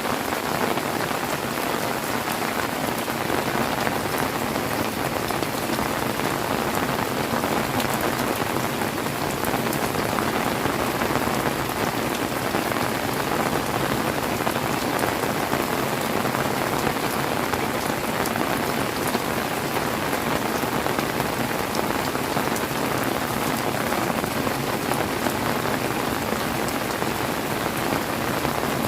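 Heavy rain falling steadily, a dense even hiss of drops hitting surfaces, with fine drop ticks throughout.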